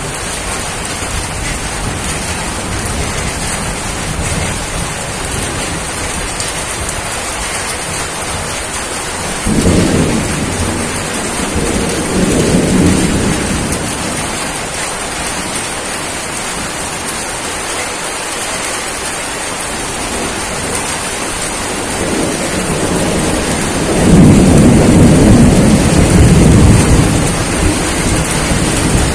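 Steady heavy rain with two rolls of thunder: one rumbles through the middle, and a second, louder and longer, rolls in near the end.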